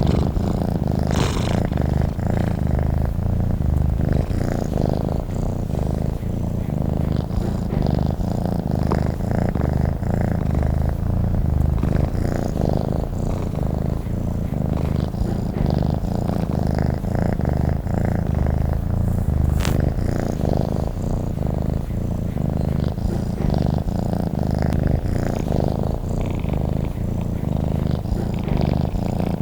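Domestic cat purring steadily: a continuous low, finely pulsing rumble.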